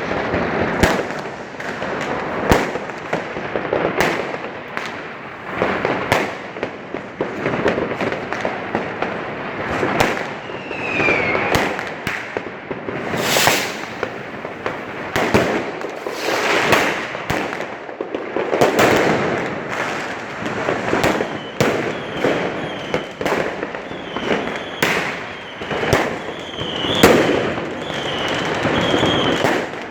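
New Year's Eve fireworks and firecrackers going off all around: many irregular, overlapping bangs and crackles. One falling whistle comes about ten seconds in, and a run of short whistles follows in the last third.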